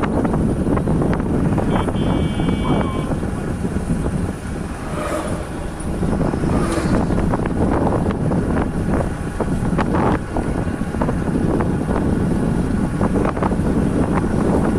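Wind buffeting the microphone of a bike riding along a rough village road, with a steady low rumble and scattered knocks and rattles from bumps. A short, steady high tone sounds about two seconds in.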